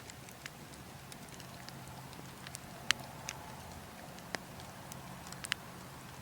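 Burning logs crackling, with irregular sharp pops scattered through, the loudest about three seconds in and again near the end, over a steady low rumble of wind.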